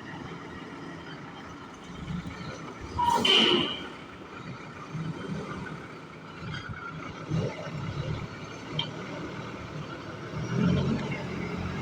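Tractor-trailer diesel engines running, with a loud, short burst of noise about three seconds in and the engine note growing louder near the end.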